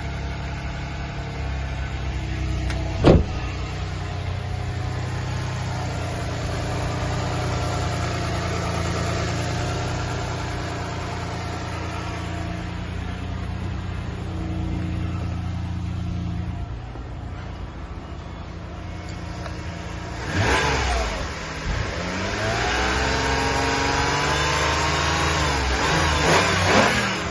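Toyota 2GR-FE 3.5-litre V6 (Lexus RX 350) running at a steady idle, with one sharp click about three seconds in. In the last quarter it is revved several times, its pitch rising and falling back.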